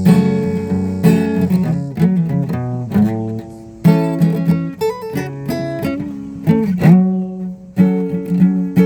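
Acoustic guitar being played: plucked and strummed chords, each struck sharply and left to ring, with one note sliding in pitch about seven seconds in.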